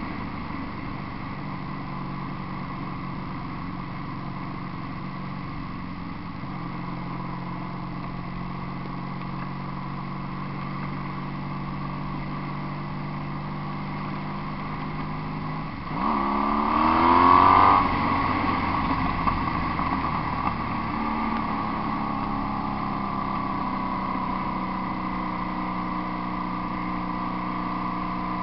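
1986 Honda VF750's V4 engine running through homemade exhaust pipes while riding at a steady speed. A little past halfway it gets suddenly louder, rising in pitch under throttle for a couple of seconds, then settles back to a steady cruise.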